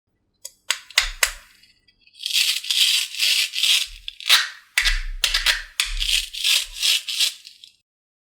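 Rattling in uneven pulses, preceded by two sharp clicks about a second in, with low thumps under some of the pulses.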